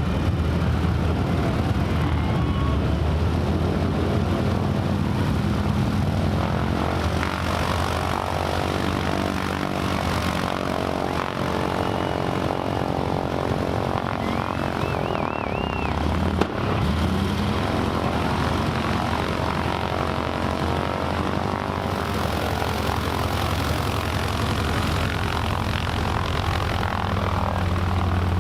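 Steady low engine rumble of a mass of Harley-Davidson motorcycles, with a propeller plane's engine drone swelling and fading through the middle.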